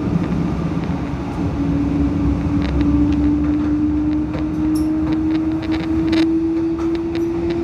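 Steady rumble of a moving train heard from inside the carriage. A single whine slowly rises in pitch from about a second and a half in as the train picks up speed, with scattered sharp clicks from the wheels on the track.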